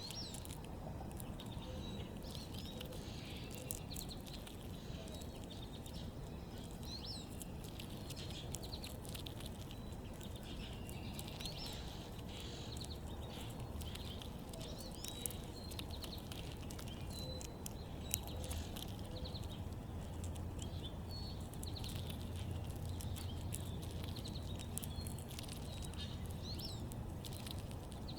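Small backyard birds chirping in short, repeated high calls throughout, with scattered faint clicks, over a steady low background rumble.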